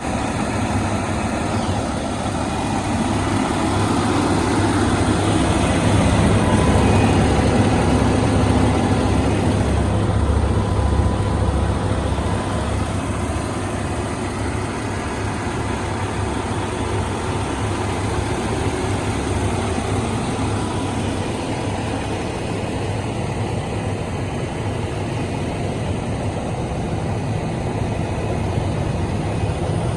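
Cummins X15 15-litre inline-six diesel in an International HX620 truck, idling steadily. It gets a little louder for a stretch in the first half.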